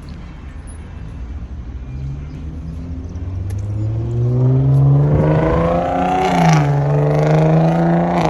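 A motor vehicle engine accelerating nearby: its pitch climbs steadily for several seconds, drops back briefly as if changing gear, then holds steady.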